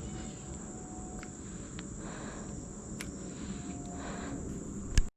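Steady, high-pitched drone of insects calling, over a low rumble. A sharp click comes near the end, just before the sound cuts out abruptly.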